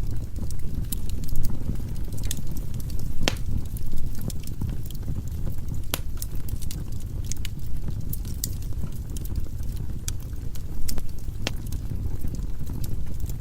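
Firewood burning in a fireplace: a steady low rumble of flame with scattered crackles and pops, and a few louder snaps.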